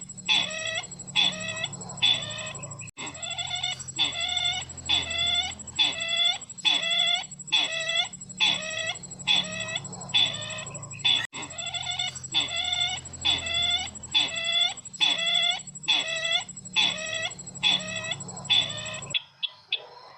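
Lure recording of the bird called sisintar ladang, used for bird trapping: one short call repeated about twice a second over a low hum, stopping abruptly about a second before the end.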